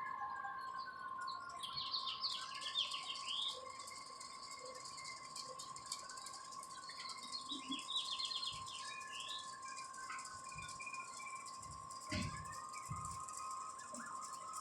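Birds chirping in quick trilling bursts over the faint, steady whine of a distant airplane, whose pitch slides down at the start as it passes.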